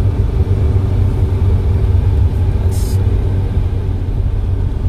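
Proton Wira's engine running at low revs as the car creeps forward, a steady low rumble heard from inside the cabin. A short hiss comes about three seconds in.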